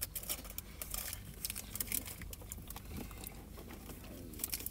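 Quiet close-up eating sounds: a burger being chewed, with irregular small wet mouth clicks and light crinkling.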